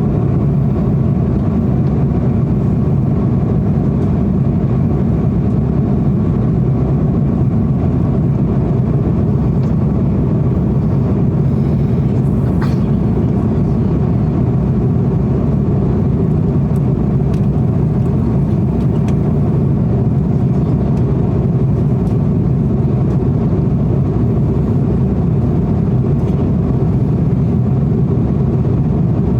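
Steady low roar inside an airliner cabin, from the engines and the airflow.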